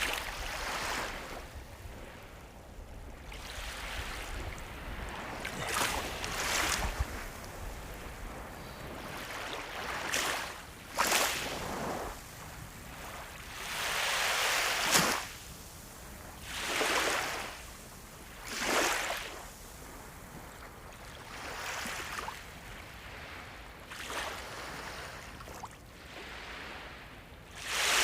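Ocean surf: a steady wash of sea waves, with separate waves swelling and breaking every two to three seconds. The biggest come about halfway through and at the very end.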